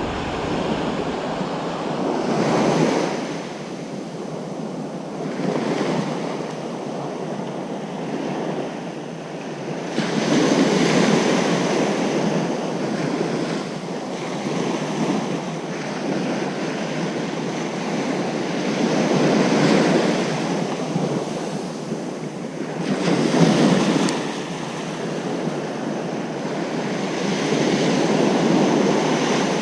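Ocean surf on a beach: waves breaking and washing in, a steady rush that swells every few seconds as each wave comes ashore.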